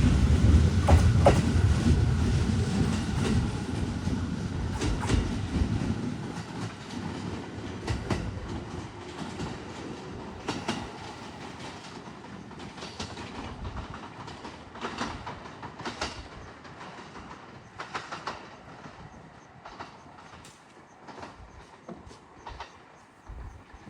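JR East 209 series 2100 electric train pulling away, its low running rumble dying down over the first few seconds. The wheels go on clicking over rail joints at uneven intervals, growing steadily fainter as the train recedes.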